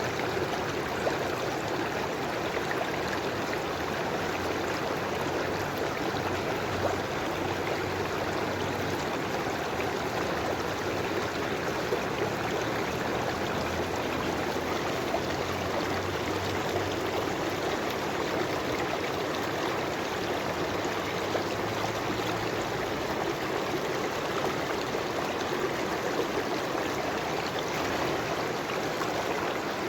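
River water flowing over stones, a steady rushing and gurgling that holds an even level throughout.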